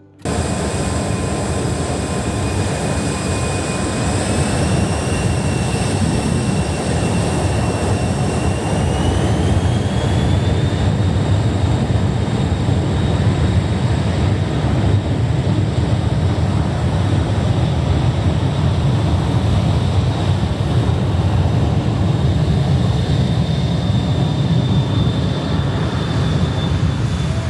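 Jet airliner engines running loud: a heavy rumble under a turbine whine that rises in pitch a few seconds in and then holds steady.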